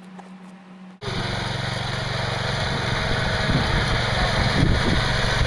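Small Bolens garden tractor engine running steadily. It comes in abruptly about a second in, after a faint hum.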